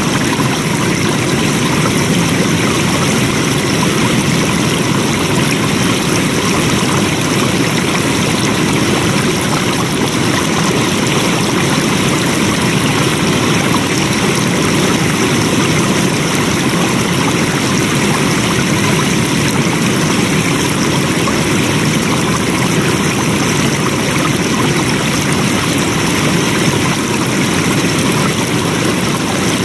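Flowing water running in a steady, unbroken rush.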